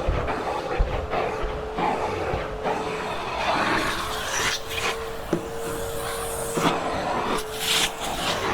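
Hoover Hushtone vacuum cleaner running with a steady whine, its tool rubbing and rasping in repeated strokes across hair-clogged carpet.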